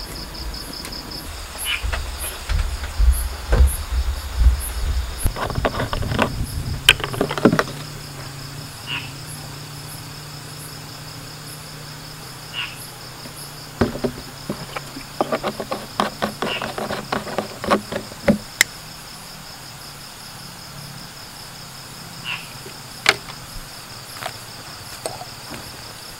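Forest insects chirring steadily in a high, finely pulsing trill. A low rumble comes at the start, and irregular clusters of knocks and clatter come about six seconds in and again around fifteen seconds in.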